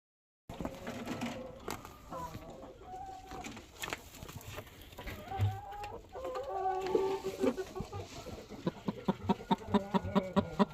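Chickens clucking, with drawn-out calls that slide in pitch, then a quick run of short repeated clucks starting about eight seconds in.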